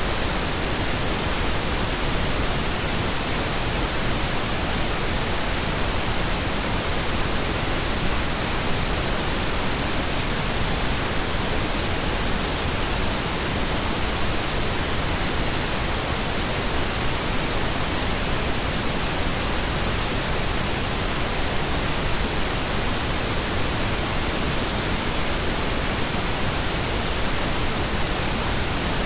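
Steady synthetic pink noise, an even, unchanging hiss spread across the whole range.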